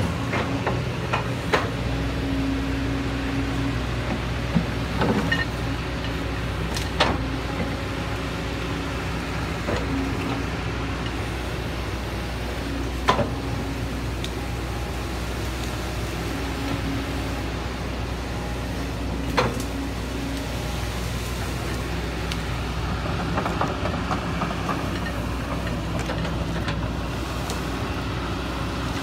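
Heavy diesel engine running steadily, with a few sharp knocks over it.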